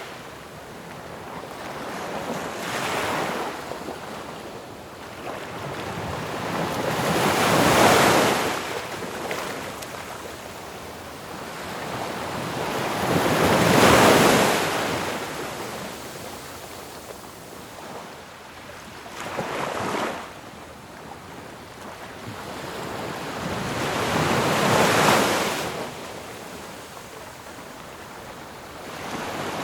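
Ocean waves crashing on a shore, one wave every five or six seconds, each swelling to a loud hissing wash and falling back to a steady surf rumble.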